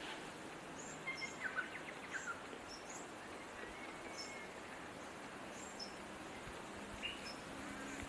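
Outdoor ambience with a steady hiss and small birds chirping: scattered thin, high chirps throughout, with a few lower chirps and calls in the first few seconds and again near the end.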